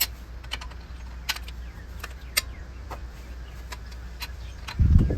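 Irregular sharp metallic clicks from the torque wrench and hand tools as the cylinder head bolts are tightened to 58 ft-lb, over a steady low hum. A heavy dull thump comes near the end.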